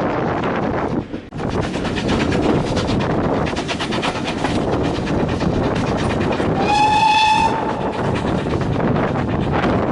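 Heritage train running along the track, with a steady rumble and rail clatter. A single whistle blast about a second long sounds a little past the middle.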